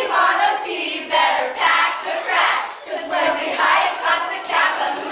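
A large group of young voices singing and chanting together in a rhythmic unison, with no instruments.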